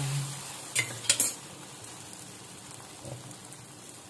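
Egg-coated paratha frying on a cast-iron tawa just after being flipped egg-side down, sizzling with a hiss. About a second in, a spatula strikes the tawa in three sharp clicks, and the sizzle then sinks to a low steady hiss.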